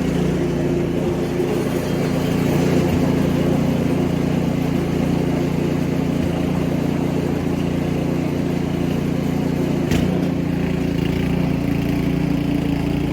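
An engine running steadily at an unchanging speed, with a single sharp click about ten seconds in.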